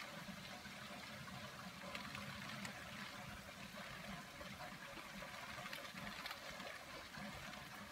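Wind-driven rain hitting a window, heard from inside the room: a faint, steady hiss with scattered ticks of drops.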